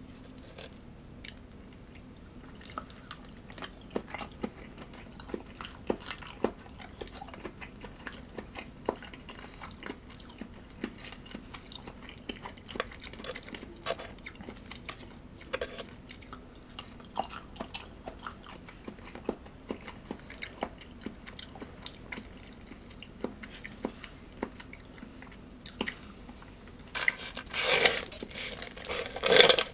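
Close-up chewing and biting: a string of small wet clicks and crunches of a mouthful of food, with a few louder crunching bites near the end.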